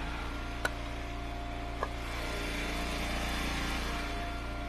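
Engine of a gas-powered hydraulic wood splitter running steadily at idle, with two short light knocks about a second apart near the start.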